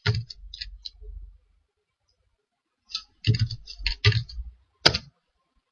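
Clicking on a computer keyboard and mouse, in two scattered bunches with a pause of about a second and a half between them.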